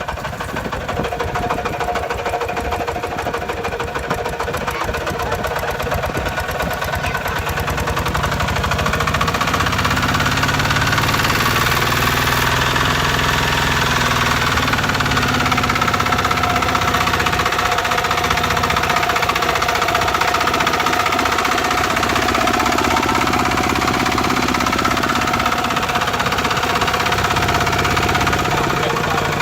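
Kubota RT140 single-cylinder diesel engine running steadily with a knocking beat, growing louder over the first ten seconds, then holding steady.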